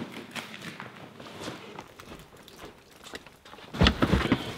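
Scattered knocks, footsteps and rustling of someone moving about packing gear, then a loud low rumbling burst near the end, like handling or wind noise on the microphone.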